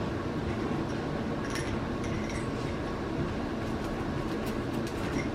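Seven-week-old French Bulldog puppies scuffling in their pen, with faint clicks and a few short high squeaks, over a steady low rumbling background noise.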